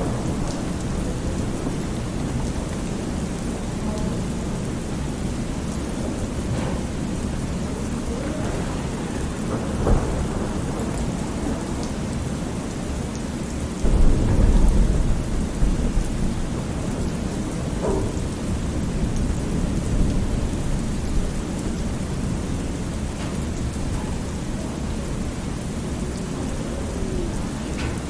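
Thunderstorm: steady rain with low thunder rumbles. The loudest rumble comes about halfway through and lasts a couple of seconds.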